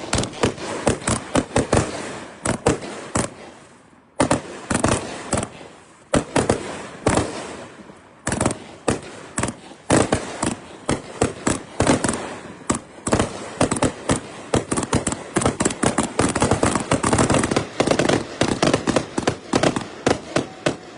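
Three consumer firework cakes fused together and fired as a finale, shooting a rapid run of sharp shots and bursting reports. There is a short lull about four seconds in, then thicker, faster volleys until near the end.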